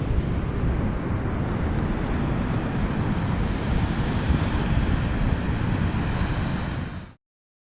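Strong wind buffeting the microphone over the steady rushing roar of a waterfall and sea surf. The sound cuts off abruptly about seven seconds in.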